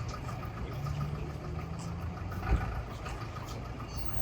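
A motor vehicle's engine running steadily with a low rumble, and a single short knock about two and a half seconds in.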